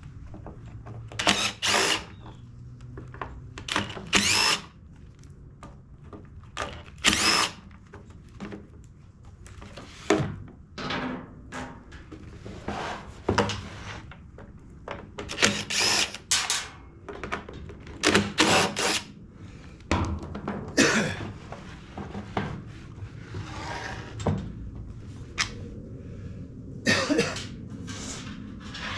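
Workshop tool sounds: a small power tool run in short bursts about a dozen times, with clunks of tools and parts being handled between them over a low steady hum.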